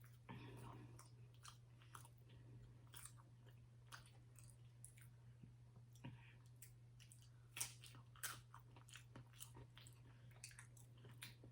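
Faint close-up chewing and crunching of a Mexican pizza with crisp tostada shells, with many small sharp mouth clicks and a few louder crunches near the end.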